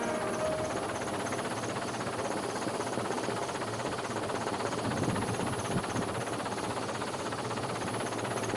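Music fading out in the first half-second, then a steady rushing outdoor noise with a faint, even, high chirping repeating a few times a second.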